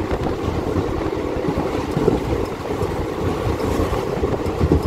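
Passenger express train running on the tracks: a steady rumble with irregular rattling and knocking from the wheels and coach.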